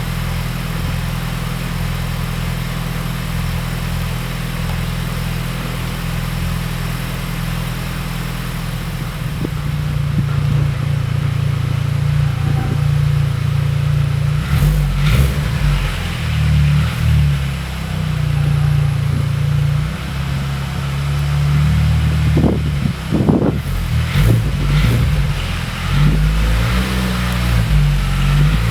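Audi A6's turbocharged four-cylinder, a 1.8T stroked to 2.0 litres with a TD04HL-19T turbo, idling steadily, then revved repeatedly from about ten seconds in. Sharp pops and crackles from the exhaust come with the revs, a few of them near the middle and later on.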